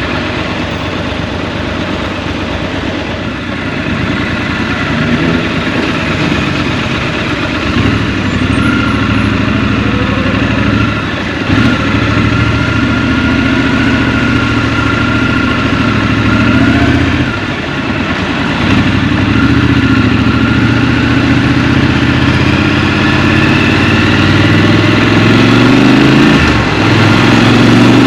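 Scrambler motorcycle engine running through traffic. It goes up and down in pitch as the rider accelerates and shifts, with short dips a few times and a long rise in revs in the second half.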